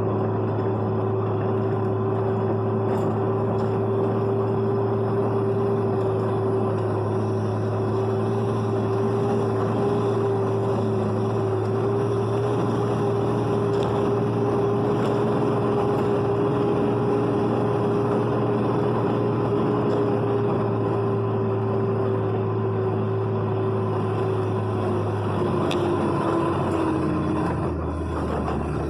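Road vehicle driving steadily, a constant engine and road hum with a rushing noise over it; near the end the pitch drops as it slows down.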